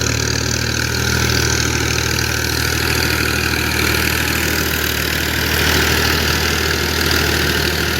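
Tractor diesel engine running steadily with an even low drone.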